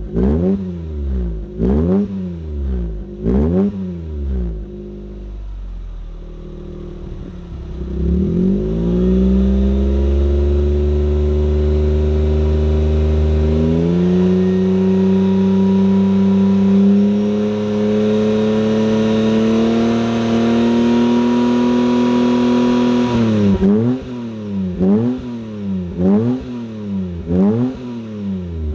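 Daihatsu Mira e:S's KF three-cylinder engine running through an aftermarket muffler: a run of short throttle blips, a drop to idle, then revs raised and held high for about fifteen seconds. Near the end the revs drop suddenly and the throttle is blipped again, about once a second.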